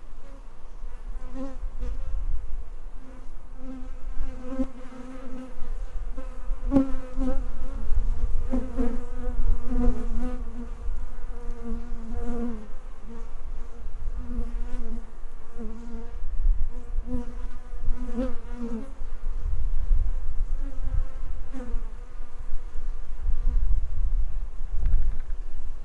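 Honeybees buzzing around beehives, individual bees droning close by and drifting off, over a low rumble.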